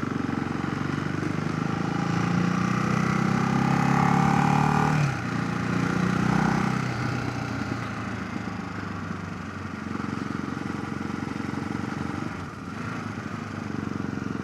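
Ducati motorcycle engine pulling under acceleration, its pitch rising for a few seconds. About five seconds in it drops sharply, rises again briefly, then settles to a lower, steadier run.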